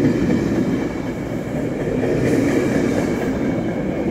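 ACE commuter train's bilevel passenger coaches rolling past close by, a steady noise of wheels running on the rails.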